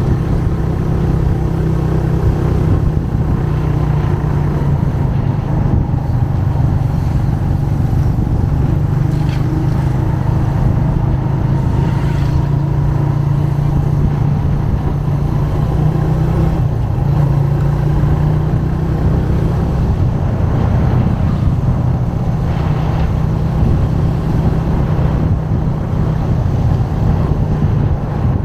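Motorcycle engine running steadily while riding, its pitch drifting slightly up and down.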